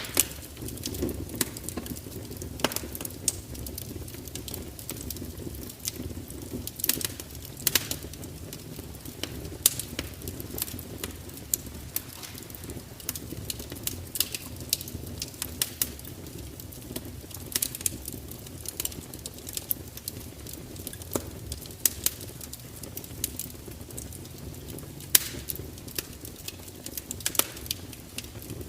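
Fire crackling: irregular sharp pops and snaps over a low, steady rumble of burning.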